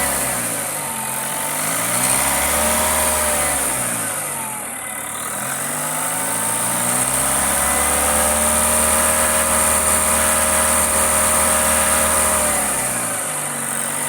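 Mahindra Thar ROXX engine revved with the bonnet open: two short revs, then a longer rev held for about six seconds before dropping back near the end. The revving is meant to bring out a rattle from a loose pipe in the engine bay.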